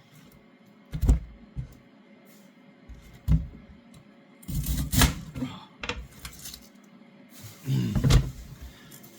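Irregular knocks and thuds of a cabbage being handled and cut on a chopping board, with some rustling between them: about six knocks, the loudest near the start, in the middle and near the end.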